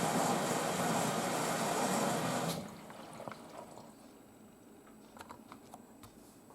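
Washing machine filling with water for the main wash: a steady rush of water that stops abruptly about two and a half seconds in, leaving faint drips and small ticks.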